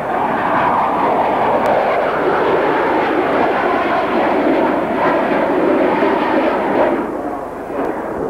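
Jet aircraft flying over the display line: a steady rushing engine noise that eases slightly near the end.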